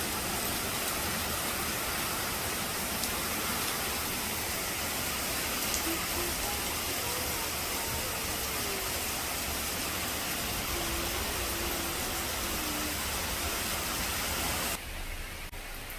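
Heavy rain falling, a steady hiss; it drops off abruptly near the end.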